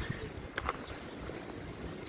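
Wind rumbling on the microphone, with two short sparrow chirps about half a second in.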